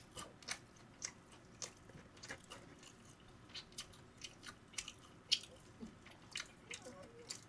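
A person chewing a mouthful of sauced fried chicken close to the microphone. It is heard as a string of faint, irregular crunches and wet mouth clicks.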